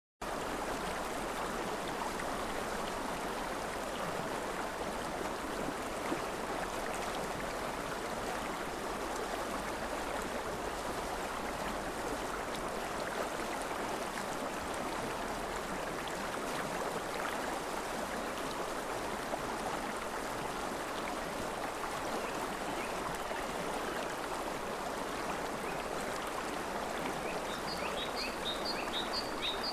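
River water flowing with a steady rush. Near the end a bird joins in with a rapid series of short, high chirps.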